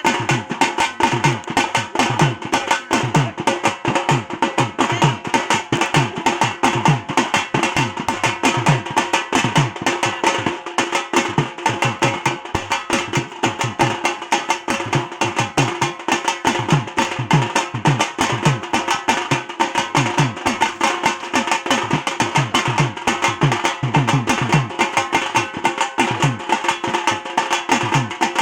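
Fast, steady drumming for dancing, many strokes a second, with deep drum strokes that drop in pitch.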